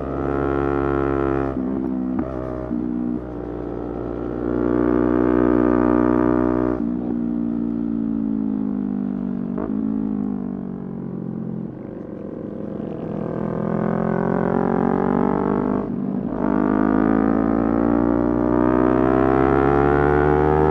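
Motorcycle engine under way, its pitch changing through the ride: short breaks in the note about a second and a half and three seconds in, like gear changes, then a long slide down in pitch from about seven seconds in. From about twelve seconds in it climbs again, with one more brief break near sixteen seconds before rising further.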